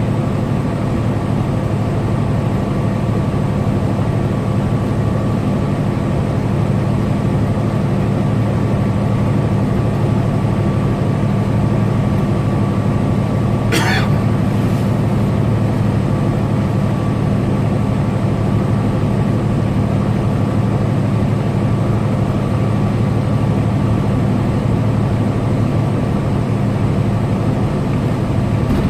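Semi-truck cab at highway cruise: a steady low drone of the diesel engine and road noise. A single brief, sharp sound cuts in about halfway through.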